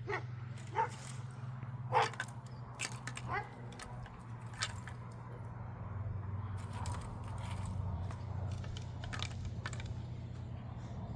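A dog giving four short barks in the first few seconds, followed by scattered light clicks and knocks, over a steady low hum.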